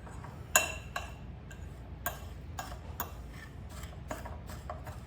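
A fork stirring a graham cracker crumb and butter crust mixture in a bowl, clicking and scraping against the bowl in irregular strokes about two or three times a second. The sharpest clinks come about half a second in and again near two seconds.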